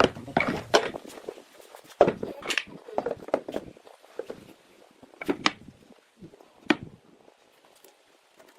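Scattered knocks and taps of wooden workpieces being handled, irregular and uneven in loudness, dying away about seven seconds in.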